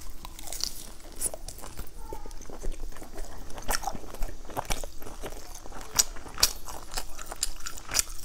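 Close-miked eating: biting into and chewing pan-fried flatbread, with many short, sharp wet mouth clicks and smacks scattered throughout.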